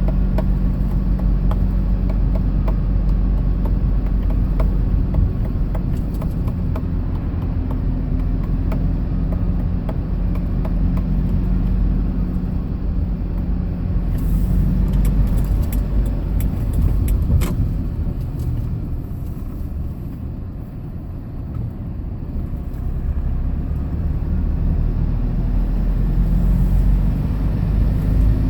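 Hyundai Porter II box truck driving: a steady low engine hum with road noise that eases off for a few seconds about two-thirds of the way through, then builds again.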